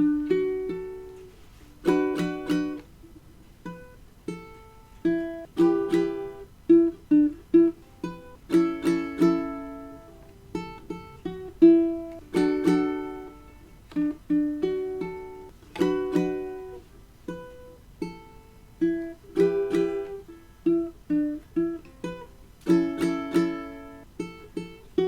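Ukulele playing a slow intro that mixes short groups of strummed chords with single plucked notes, each note ringing out and fading.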